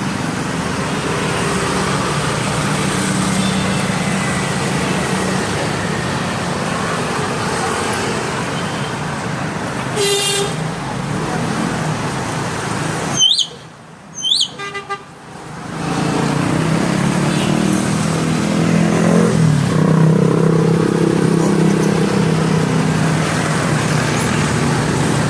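Steady road traffic noise with engine hum and horn-like tones. Partway through it drops away briefly and two short, sharp rising whistles are heard, typical of a hill myna's call.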